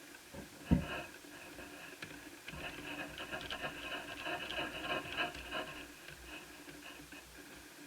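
Hands working on the Asus Eee PC 1001P netbook's plastic casing and parts: a single knock about a second in, then a few seconds of light scratching and small clicks.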